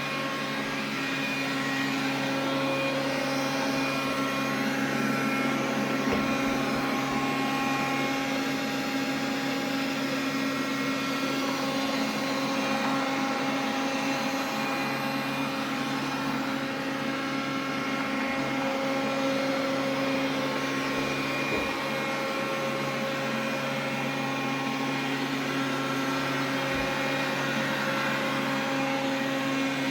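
Xiaomi vacuum cleaner running steadily, a continuous motor hum made of several steady tones over a rush of air. The owner takes the noise to be an abnormal, extraneous one.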